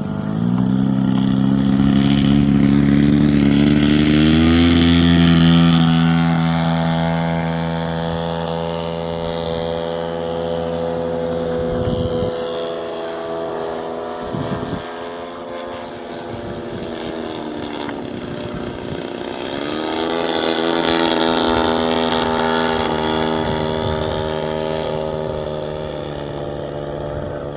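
Engine and propeller of a 40% scale RC Cessna Bird Dog model plane running, its pitch rising with throttle about half a second in and again near four seconds. The note sags for a few seconds in the middle and rises again about twenty seconds in.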